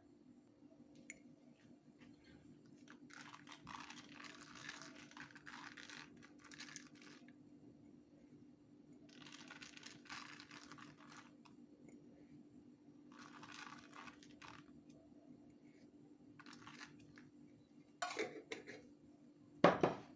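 Rustling, crinkling noise in several spells a second or a few seconds long, then sharp knocks near the end, the last one the loudest.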